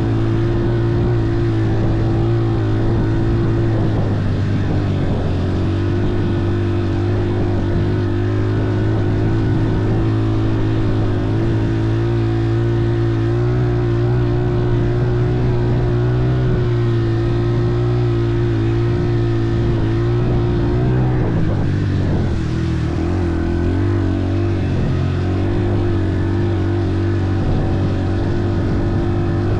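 A vehicle engine running steadily at constant speed, its pitch shifting lower about 21 seconds in.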